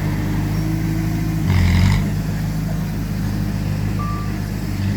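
Heavy diesel machinery engine running steadily under load, with a short hissing burst about one and a half seconds in and a single short beep near the end.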